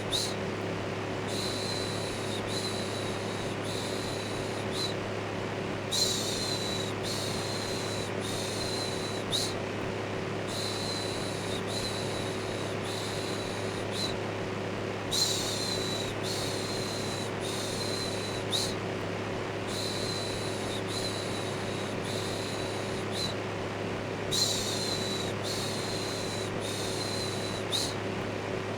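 Electric fan running with a steady hum, overlaid with a shushing 'shhh' repeated about once a second in runs of three or four, each run followed by a short pause.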